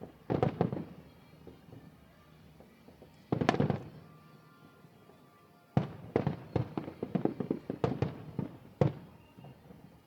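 Aerial fireworks bursting overhead: two loud volleys of bangs about three seconds apart, then from about halfway a rapid run of sharp bangs and crackles.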